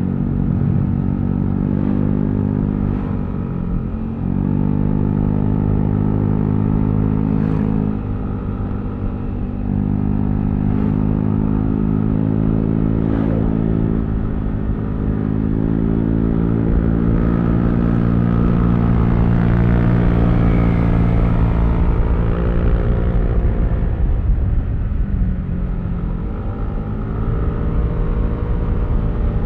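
Yamaha Aerox V3 scooter's 155 cc single-cylinder engine running under way, its pitch rising and falling as the throttle is opened and eased off, with brief dips a few times.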